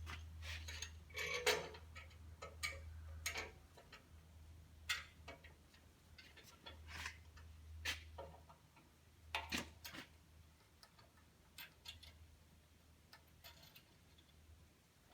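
Scattered light clicks and taps of small parts and tools being handled during electrical wiring work, over a steady low hum.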